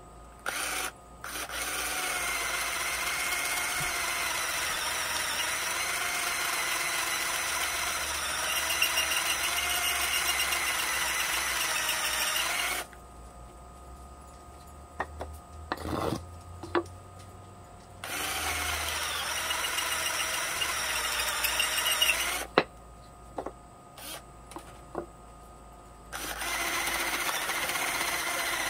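Electric drill boring starter holes through a pine board, running in three bursts of several seconds with the motor's pitch wavering slightly under load. Short knocks and clicks in the pauses between bursts.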